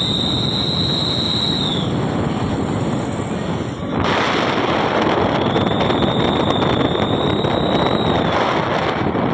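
Moving vehicle with loud rumbling travel noise, a high steady whistle coming and going over it, and the noise growing louder and brighter about four seconds in.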